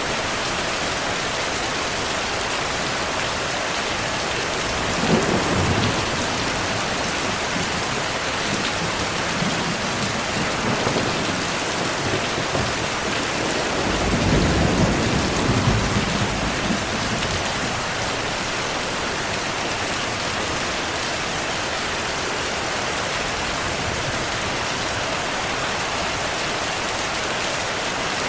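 Steady heavy rain with thunder rumbling twice, a short rumble about five seconds in and a longer, louder one about halfway through.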